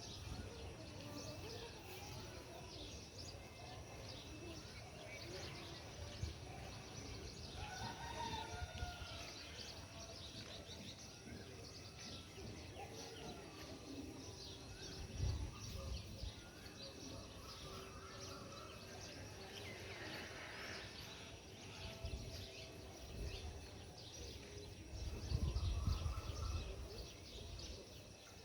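Birds calling in open air, with a rooster crowing. A low rumble comes twice, about fifteen seconds in and near the end; these are the loudest moments.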